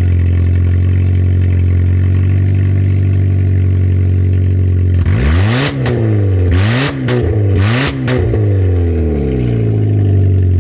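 2003 Oldsmobile Alero engine running on open headers with no exhaust past the manifold. A loud steady idle, then about halfway through three quick throttle blips, the pitch rising and falling, with harsh crackling bursts on the blips, before it settles back to idle.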